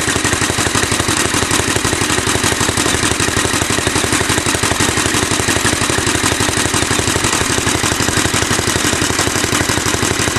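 Alpha De Laval single-cylinder tank-cooled engine running steadily with quick, even firing beats while it drives a Century generator.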